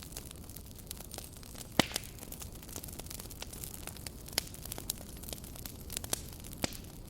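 Campfire burning, wood crackling and popping at irregular moments over a low steady hiss, with one sharp pop about two seconds in.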